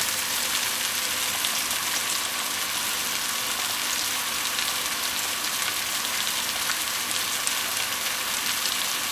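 Sliced button and Swiss brown mushrooms sizzling steadily in hot oil in a frying pan as they sweat down, an even, crackling hiss.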